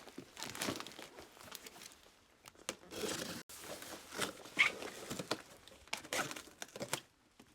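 A cardboard shipping box being opened and unpacked: irregular rustling, tearing and crinkling of cardboard and packing material.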